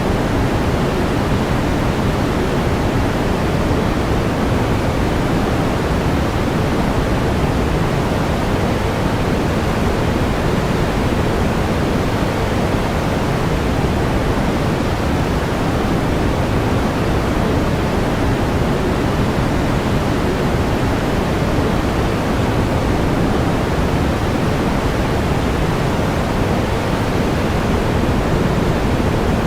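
Steady pink noise: an even, unbroken hiss weighted toward the low end, without any change.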